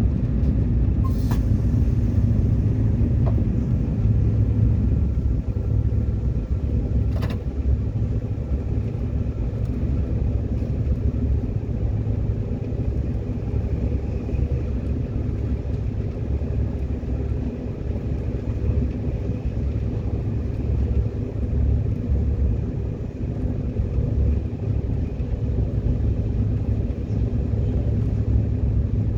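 Subway train running along the track, heard from on board: a steady low rumble, with two brief sharp clicks about one second and seven seconds in.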